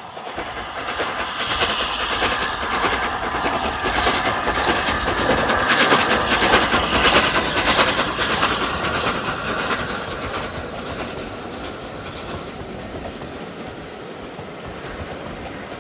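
A train passing close by, its wheels clattering rhythmically over the rail joints. It grows louder to a peak about halfway through, then fades to a steadier rumble.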